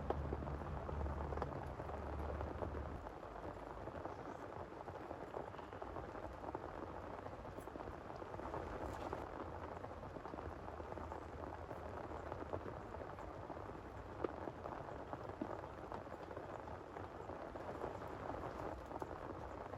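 Steady heavy rain falling, with scattered individual drops ticking. A low rumble dies away about three seconds in.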